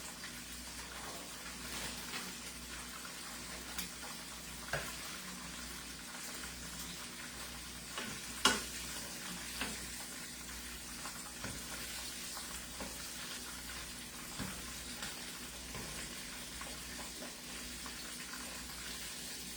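Chicken pieces frying in hot oil: a steady sizzle, with a few light knocks and clicks, the sharpest about eight and a half seconds in.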